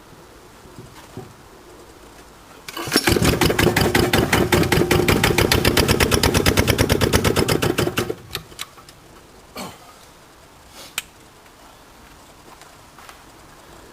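Cold Lister Petter diesel engine chugging with a fast, even beat for about five seconds during a cold start, then cutting off abruptly, followed by a few separate knocks.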